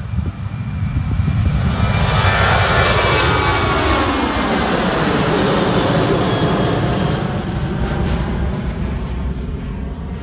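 Airliner flying past close by. Its engine noise swells to a peak and then fades, and the engine tone falls in pitch as the aircraft goes by.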